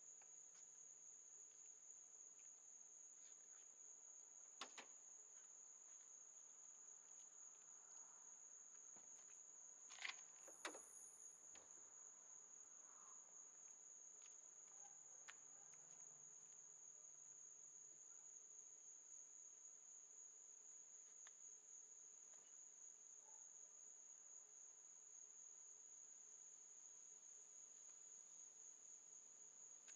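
Near silence: a faint, steady high-pitched hum, with a few brief soft clicks about a third of the way in.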